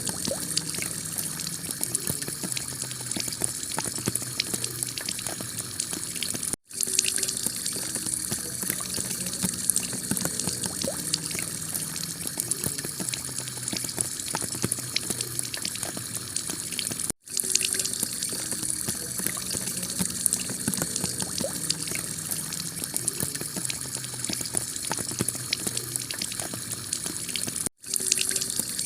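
Heavy rain pouring steadily onto a tiled roof, a dense hiss full of fine drop ticks. The sound cuts out for an instant three times, about ten seconds apart.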